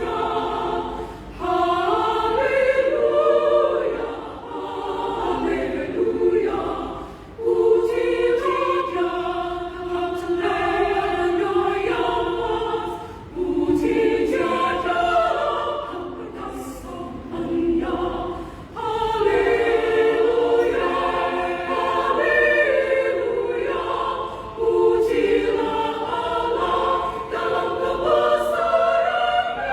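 Women's choir singing in several parts, sustained phrases with short breaths between them.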